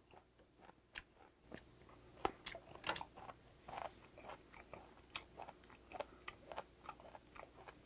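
A person chewing a mouthful of raw fermented skate (hongeo) slices, with faint irregular wet clicks of the mouth and teeth, a few a second.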